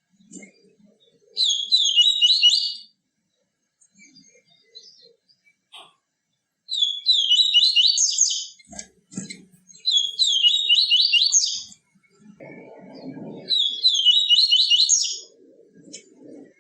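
Papa-capim seedeater singing: four short, fast trilled phrases, each about two seconds long, with pauses between them.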